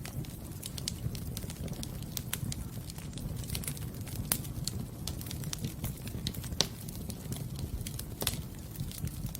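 Fire burning in a fireplace, crackling with irregular sharp pops over a steady low rumble of the flames. A louder pop comes about two-thirds of the way through.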